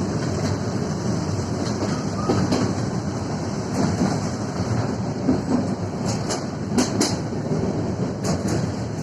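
Train running on the rails, a steady rumble of wheels on track, with a few short, sharp high clicks or squeaks from the wheels about six to seven seconds in.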